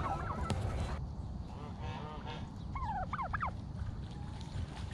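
Backyard poultry calling, with a quick run of about five sharp, pitched notes about three seconds in.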